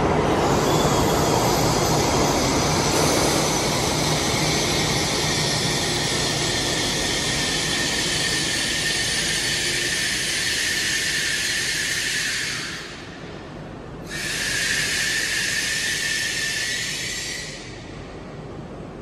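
N700S Kamome shinkansen train moving slowly through the station, with a low running rumble under a loud, high, steady hissing whine. The whine cuts out suddenly about 13 seconds in, comes back a second later and fades out a few seconds after that.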